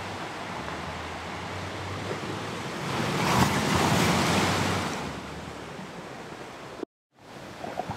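Ocean waves washing on a shore as a steady background, with one wave swelling up and receding in the middle; the sound cuts out completely for a moment near the end.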